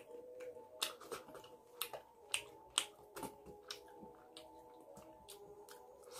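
Close-miked wet chewing and lip-smacking from someone eating chicken curry and rice by hand: sharp, irregular smacks, several a second, over a faint steady hum.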